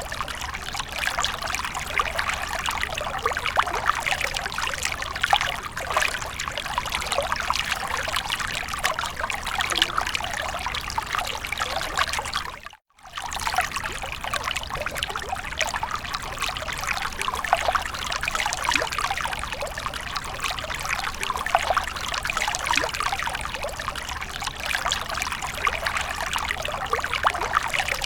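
Water fountain splashing and trickling steadily. It cuts out for a split second about halfway through, then carries on.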